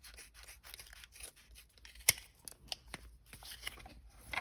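A sheet of foil-backed Dynamat sound-deadening mat being cut to size: a run of small crackling snips and scrapes, with one sharper click about two seconds in.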